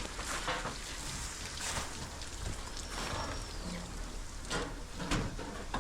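A steady low engine-like hum under a noisy haze, with a few scattered knocks and clatters.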